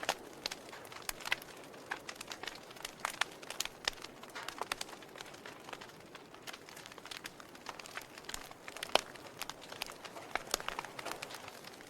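Logs burning in a fireplace, crackling with irregular sharp pops and snaps over a soft hiss, with one louder snap about nine seconds in.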